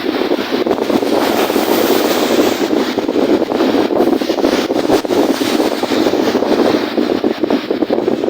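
Strong wind buffeting the microphone in a steady rush with quick flutter, over the wash of wind-driven waves on a lake.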